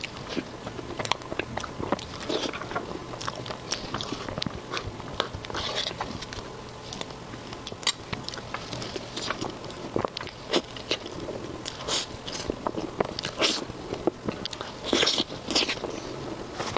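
Close-miked eating: chewing and biting, with a dense, irregular run of short wet mouth clicks and smacks.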